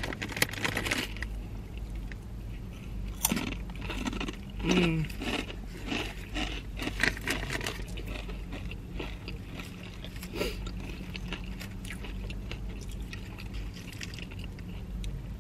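Close-up crunchy chewing and biting of a sandwich stuffed with Hot Cheetos: many sharp crunches, thickest through the first half and sparser later, over a low steady hum.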